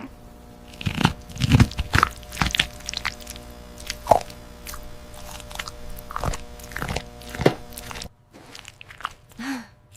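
Cartoon sound effects of biting and chewing juicy fruit: a string of wet, crunchy bites and chews over a steady background hum. The bites and the hum stop abruptly about eight seconds in.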